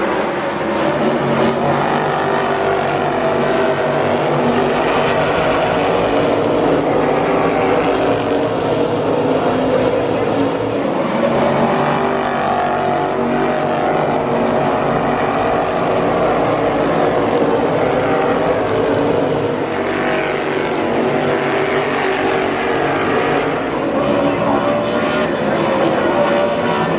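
A pack of NASCAR Cup stock cars' V8 engines racing around the short track, making a continuous loud drone of many engines. The pitch keeps swinging up and down as cars sweep past and accelerate off the corners.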